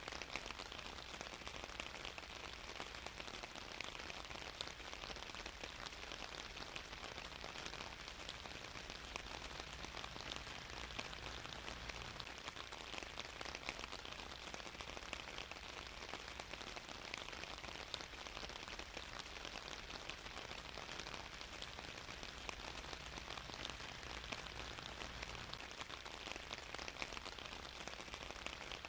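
Steady rain falling, an even hiss with many small drop ticks and no let-up.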